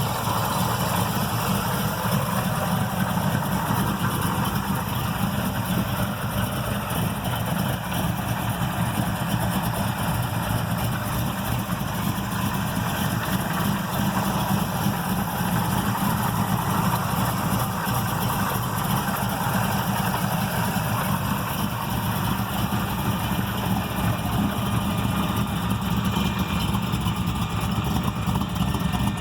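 Built 406 V8 in a 1968 Pontiac Firebird, running a Comp 292 Magnum cam through 1 7/8 headers, idling steadily with a very rough, choppy idle. The big cam is what gives it that idle.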